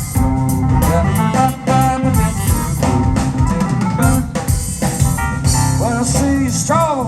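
Live blues band playing an instrumental passage, with drum kit and electric guitar. A lead line bends up and down in pitch near the end.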